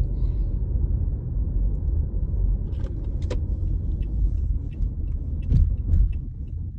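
Car interior road noise: a steady low rumble while driving, with a few light clicks or rattles partway through.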